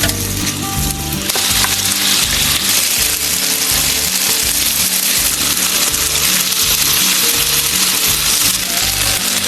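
Food sizzling in a hot pan: a steady frying hiss that swells about a second in, over background music.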